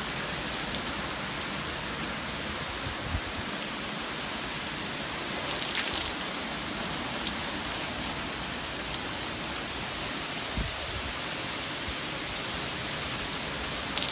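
Heavy rain pouring down steadily, a dense even hiss of rain hitting surfaces, with a brief louder patter of drops about six seconds in.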